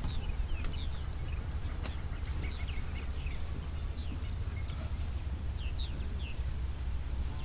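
Birds calling: many short, quick chirps that slide downward in pitch, scattered through, over a steady low rumble.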